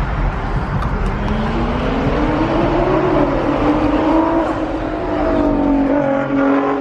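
A car engine revving: its note climbs over about two seconds, then eases slowly down as it keeps running.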